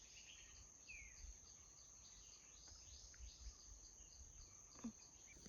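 Near silence: faint forest ambience with a steady high-pitched insect drone, small repeating chirps and a short falling bird chirp about a second in.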